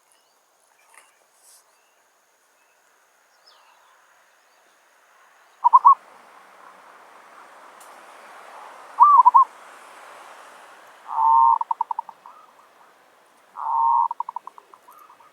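Zebra dove (merbok) cooing: a few short coos, then two longer calls that each break into a quick stuttering run of notes, the bird's typical song. A faint rushing hiss lies under the first calls.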